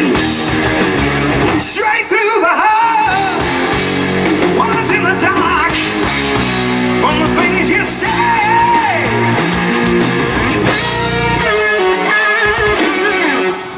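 Hard rock band playing live, loud electric guitar and drums, with a lead line that bends and wavers in pitch over them. The music breaks off near the end.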